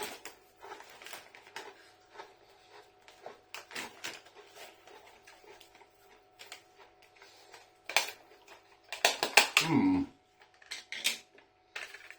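Crunching and chewing of tortilla chips in the mouth: scattered crisp crunches, sparse at first and densest about eight to ten seconds in.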